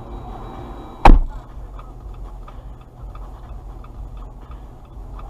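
A single sharp bang about a second in, then the car's hazard-light flasher ticking steadily inside the cabin over a low engine rumble.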